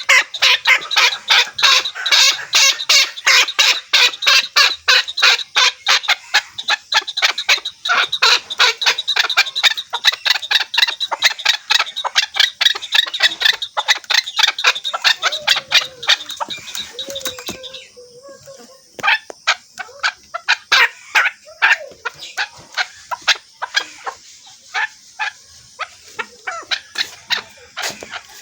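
Chukar partridge calling: a fast run of short repeated notes, several a second, that thins out to scattered calls about two-thirds of the way through.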